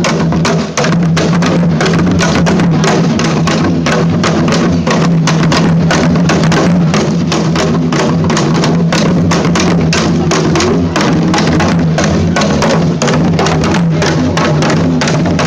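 Loud live percussion music: many drums struck in a fast, dense rhythm over a steady low sustained tone.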